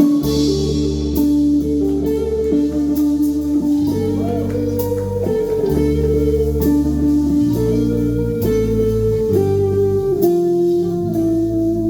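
A live rock band playing: electric guitar over bass guitar, with steadily changing bass notes and regular drum hits.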